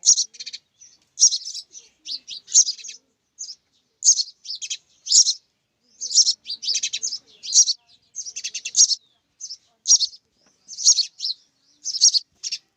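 Young sparrows chirping: short, high chirps in quick clusters of several a second, broken by brief pauses.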